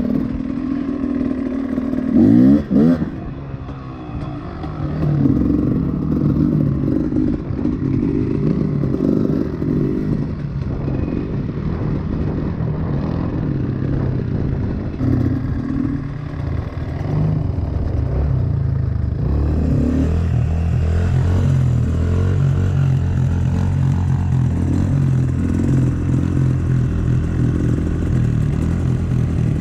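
Honda CRF110 pit bike's small four-stroke single-cylinder engine running under riding load, its pitch rising and falling with the throttle. A quick rev about two seconds in is the loudest moment.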